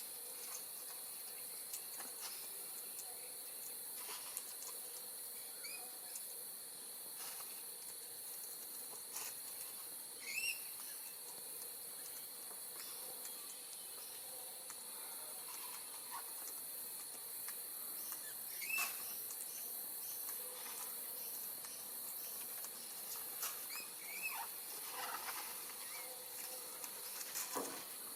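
Steady high-pitched drone of insects in the yard, with short rising bird chirps a few times and scattered light clicks and taps.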